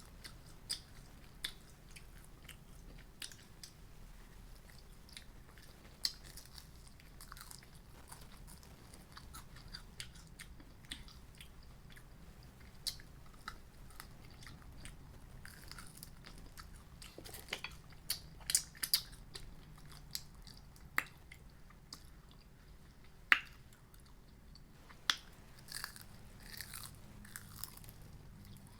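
A person chewing and biting into crunchy fried food, with scattered sharp crunches and mouth clicks that come more often and louder in the second half.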